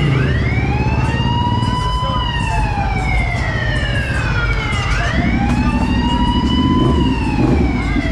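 A wailing siren, its pitch climbing and falling slowly about twice, over a low engine rumble.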